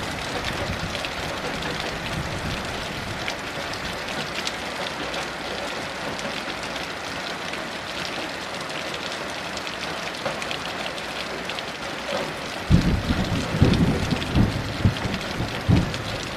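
Steady heavy rain hissing and pattering. About three-quarters of the way through, a low thunder rumble breaks in suddenly and rolls on in uneven swells under the rain.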